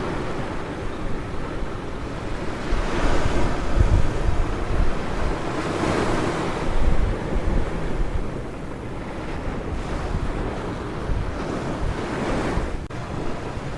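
Ocean surf breaking and washing up a beach, swelling louder every few seconds as waves come in, with wind rumbling on the microphone.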